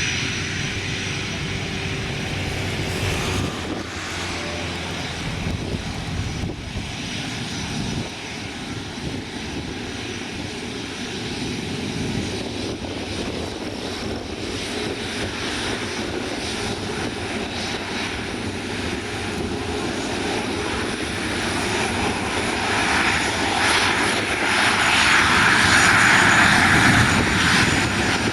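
Airliner engines running throughout, growing louder over the last several seconds as the aircraft comes closer.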